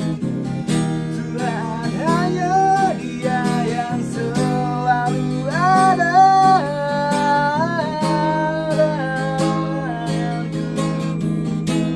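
A dalang's singing voice holding long, wavering notes with slides between them, over an instrumental accompaniment of sustained struck or plucked notes and regular sharp strikes.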